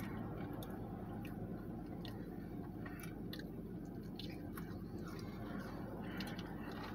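Close-up chewing of a soft iced donut: scattered small wet mouth clicks over a low steady hum.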